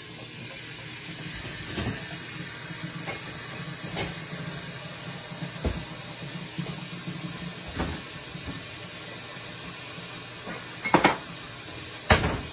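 A pan and utensils being handled in a kitchen, giving about half a dozen scattered knocks and clinks, the loudest two near the end. Under them runs a steady low hum from the microwave running.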